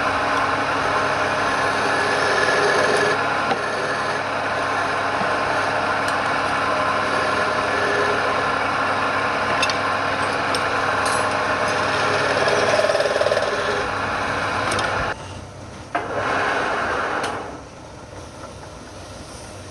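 Wood lathe running while a turning tool cuts and scrapes the spinning wood, a steady rough rasping over the machine's hum. The cutting breaks off about fifteen seconds in, comes back briefly, then stops, leaving a quieter steady run.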